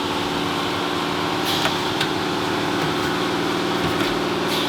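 Steady machinery hum with a low droning tone, and a few light clicks and taps on top of it.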